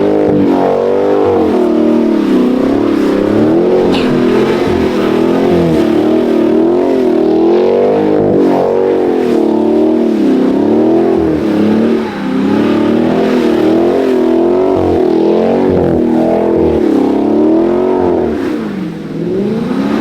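A car engine revving up and down over and over as the car slides in the snow, its pitch rising and falling about once a second, with a brief let-off about twelve seconds in and again near the end.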